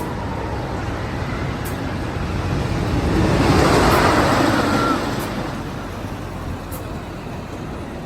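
Amusement-park miniature train running, growing louder for a couple of seconds about three seconds in, then fading again.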